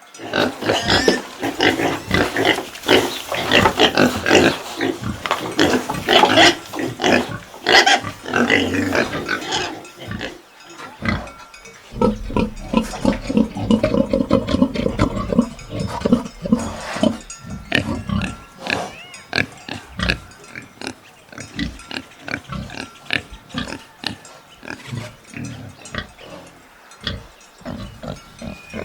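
Pigs squealing and grunting: loud high-pitched squeals for about the first ten seconds, then lower grunts in short, separate bursts.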